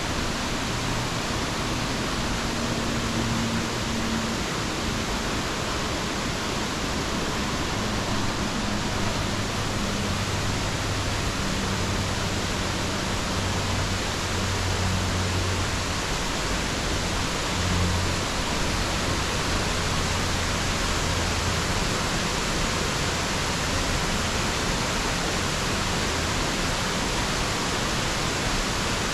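Waterfall pouring into its pool: a steady, even rushing of water, with a deeper low rumble that swells and fades through the middle. The falls are running low, with only the left edge flowing, though that strand carries a fair volume.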